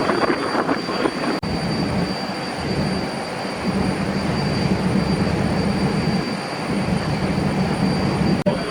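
Boat engine running with a steady drone that swells and eases, with two abrupt breaks, about a second and a half in and near the end.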